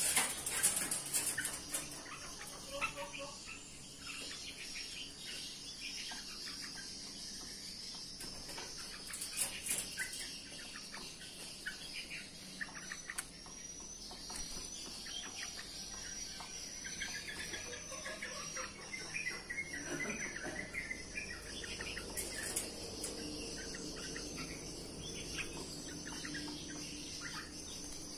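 Bulbuls chirping and calling in an aviary: a steady stream of short high chirps, with fuller warbling calls joining around the middle.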